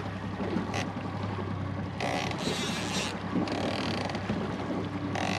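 Small boat's outboard motor running steadily at low speed, with bursts of wind on the microphone and water hiss coming and going over it.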